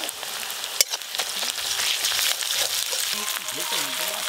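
Sliced onions and ginger paste sizzling in hot oil in an aluminium wok while a spatula stirs them around the pan, with a sharp knock about a second in.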